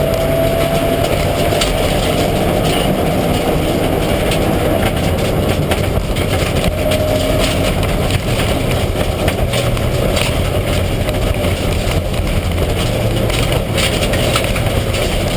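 Mitsubishi Lancer Evolution IX rally car's turbocharged four-cylinder engine running hard at speed, a loud, dense, steady rumble with frequent short sharp clicks and knocks throughout.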